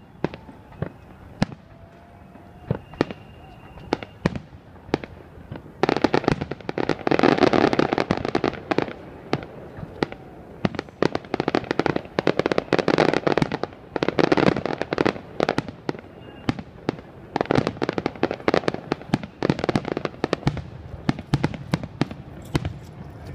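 Fireworks display: scattered single bangs and pops, then from about six seconds in, dense crackling volleys of rapid pops that come in three waves, thinning back to scattered bangs near the end.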